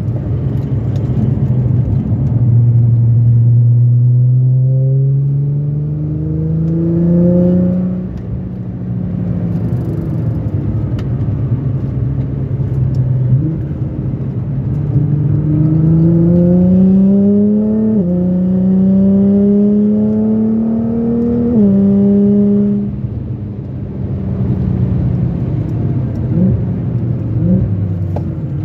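Car engine heard from inside the cabin on a track lap, its note climbing steadily under acceleration and dropping sharply at gear changes, about a quarter of the way in and twice in the last third, over steady tyre and road noise.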